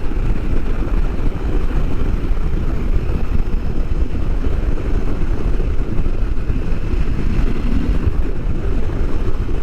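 Husqvarna Norden 901's parallel-twin engine running at road speed, mostly buried under loud, steady wind rush on the rider's microphone.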